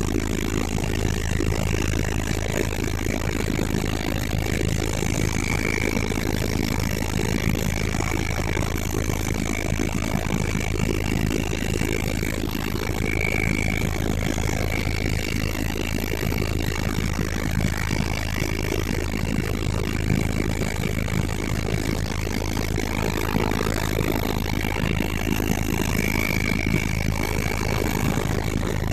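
Helicopter engine and rotor running steadily: a constant loud drone with a thin high whine held over it.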